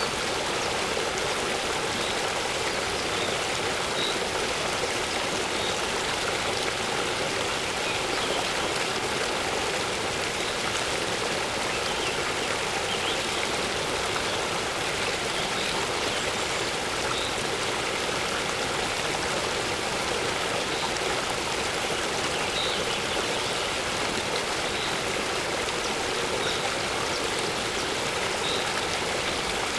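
Waterfall water rushing steadily, an even, unbroken splashing noise.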